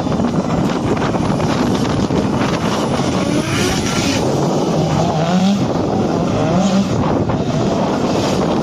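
Drift cars on track, engines revving up and down with tyre noise. The revs rise and fall about halfway through and again a couple of seconds later.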